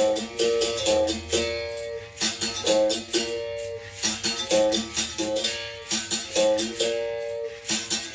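Berimbau played in a steady repeating rhythm: the stick strikes the string, switching between two close pitches, with a rattle on each stroke. The phrase recurs about every two seconds.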